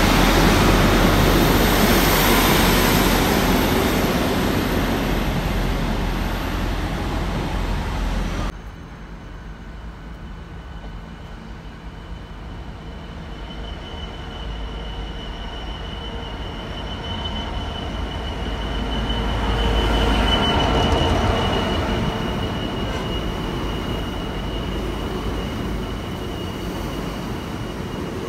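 A diesel multiple unit running loudly alongside the platform, cut off abruptly about eight seconds in. Then a freight train of cement hopper wagons approaches and passes, loudest as its locomotive goes by about two-thirds of the way through, with a steady high squeal from the wheels over the second half.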